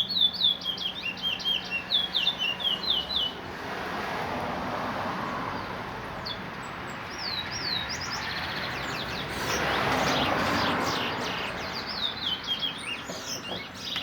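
Caged seed finch (twa-twa) singing a fast run of short, quick rising notes for about three seconds. A steady rushing noise then takes over, with only a few scattered notes, and the rapid song starts again near the end.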